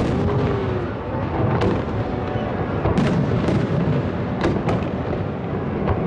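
Professional fireworks display: shells bursting in a rapid string of sharp cracks and booms, several a second apart, over a continuous low rumble of further detonations.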